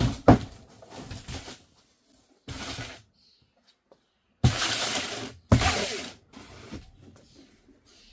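Packaging being handled and torn open while a boxed exhaust is unpacked: several short bursts of rustling and tearing with quiet gaps between them, the loudest about four and a half and five and a half seconds in.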